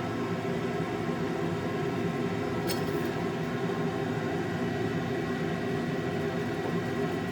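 Electric grinder running steadily at constant speed, with a brief sharp click about three seconds in.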